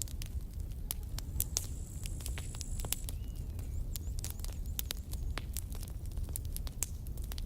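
Campfire crackling: burning wood giving irregular sharp pops and snaps, several a second, over a steady low rumble.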